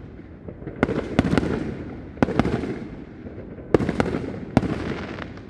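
Fireworks going off: a run of sharp bangs about a second apart, each trailing off in a rolling echo and crackle.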